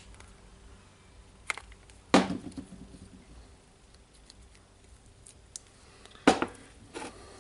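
Metal parts of a DeWalt D25003 rotary hammer's hammer mechanism handled during reassembly. There are a few sharp knocks and clicks, the loudest about two seconds in and again about six seconds in, over a faint steady hum.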